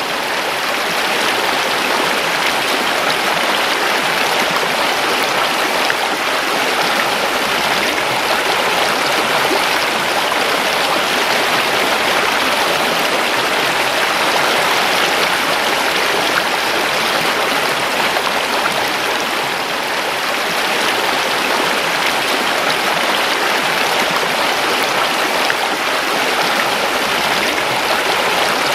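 River water rushing and babbling over rocks, a steady unbroken flow.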